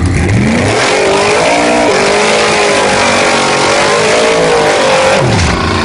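1965 Chevy II wagon drag car doing a burnout, its rear slick spinning. The engine revs up in the first second, is held at high revs with the pitch wavering, then drops back near the end.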